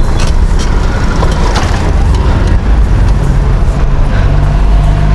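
Motor vehicle traffic heard from a moving bicycle: a low engine hum that settles into a steady tone about three seconds in, over heavy low rumble on the microphone, with a few faint clicks.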